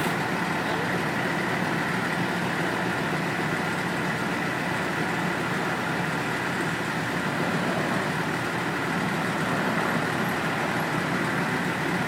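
Steady drone of a motor vehicle's engine idling, with a constant high tone over it and no change in level.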